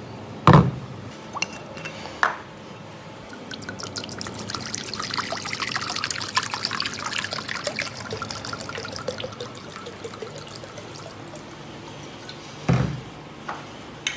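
Clear liquor poured from a bottle into a bowl, splashing for several seconds. There is a sharp knock on a steel table about half a second in and another near the end.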